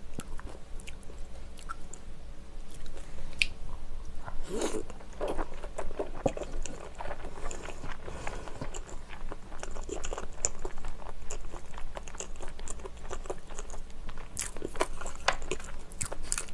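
Close-miked mouth sounds of a person chewing and biting spicy tteokbokki rice cakes and glass noodles, with wet smacking and many small clicks.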